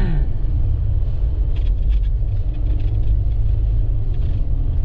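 Steady low rumble of a vehicle driving on snow-covered roads, with a few light clicks or knocks about one and a half to two seconds in.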